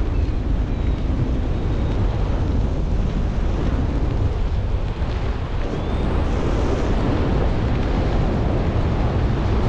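Wind rushing over the microphone in flight: a steady, heavy rumble of airflow.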